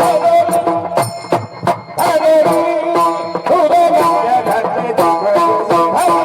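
Marathi kirtan devotional music: a held, sustained melody with frequent sharp percussion and cymbal-like strikes.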